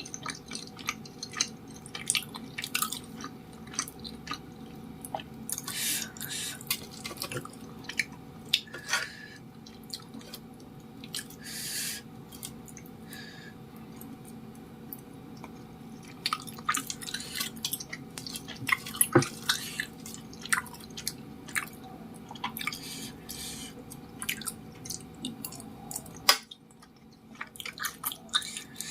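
Close-up mouth sounds of chewing chewy tapioca-starch cilok: irregular wet smacks and clicks over a steady low hum. The sounds pause briefly near the end, then start again.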